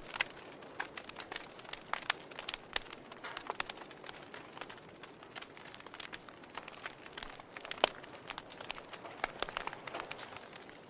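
Campfire crackling: burning wood giving irregular sharp pops and snaps over a faint hiss, with one louder pop near eight seconds in.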